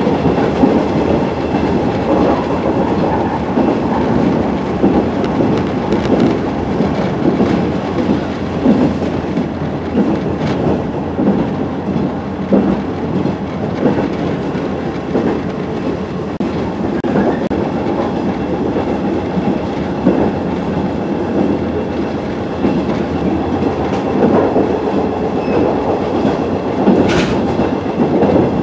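A JR 115-series electric multiple unit running along the line, heard from inside the passenger car: a steady rumble of wheels on rail, broken by repeated clacks at the rail joints.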